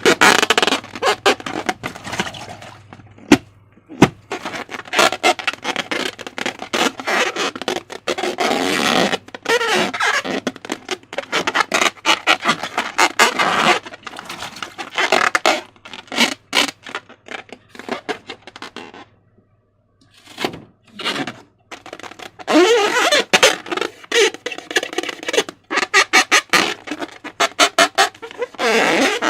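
Slime being squished and worked by hand, with wet, sticky crackling and rapid clicking pops in irregular bursts and a brief pause partway through, mixed with squeaky rubbery whines from the balloons being handled.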